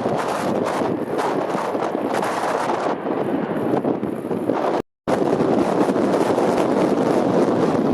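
Strong storm wind buffeting the microphone, a dense rushing roar. It cuts out completely for a split second about five seconds in.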